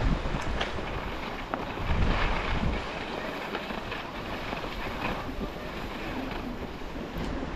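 Strong wind buffeting the microphone, with a steady hiss of skis sliding on snow. The low wind rumble is heaviest in the first three seconds and then eases.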